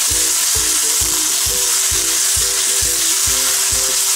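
Onion, ginger and garlic paste sizzling in hot oil in a non-stick wok while a wooden spatula stirs and scrapes it through the pan: a steady frying hiss as the masala is sautéed to cook off its raw taste.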